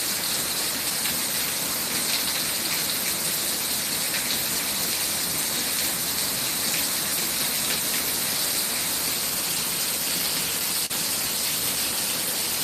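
Torrential thunderstorm downpour: heavy rain pouring steadily with a dense hiss. There is a single brief click about eleven seconds in.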